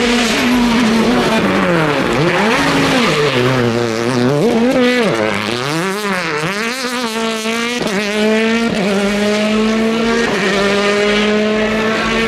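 Racing car engine revving hard. Its pitch swoops down and up several times in the first half, then climbs steadily with sudden drops at each gear change, about three shifts in quick succession.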